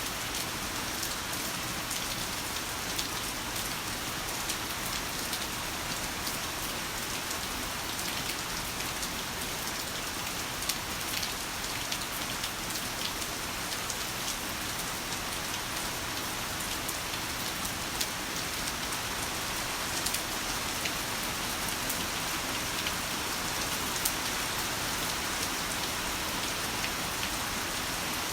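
Heavy rain falling steadily, a dense even hiss with many sharp drop impacts spattering through it.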